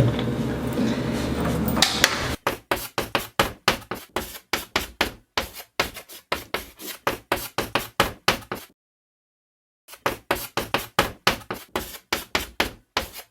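A steady rushing noise for about two seconds, then a fast, even run of sharp knocks, about four a second, that stops dead for about a second partway through and then carries on.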